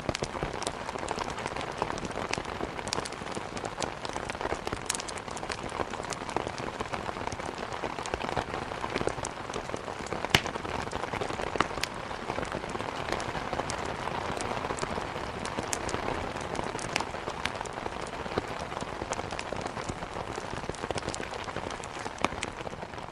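Steady heavy rain against a window, with the sharp, irregular crackles and pops of wood burning in a fireplace; the loudest pops come about ten and twelve seconds in.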